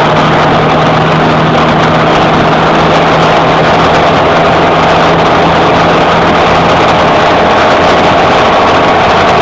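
John Deere 6820 tractor's six-cylinder diesel engine running steadily and loudly with no muffler on the exhaust.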